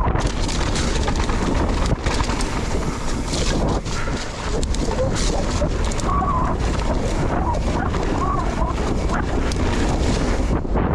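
Mountain bike riding down a muddy trail: steady wind rush over the camera microphone and tyre noise, with frequent knocks and rattles from the bike over rough ground.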